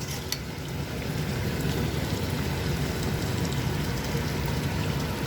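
Pot of asam pedas gravy with mackerel added, bubbling and crackling steadily on the stove, over a low steady hum.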